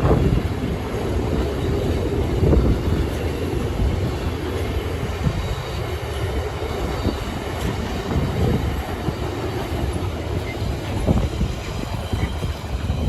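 A train passing close by: a steady, loud rumble of its wagons rolling along the track.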